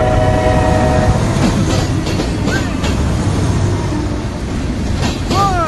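A freight train rolling past, a steady heavy rumble of wheels on rail, with a multi-note train horn chord held until about a second in and then cut off.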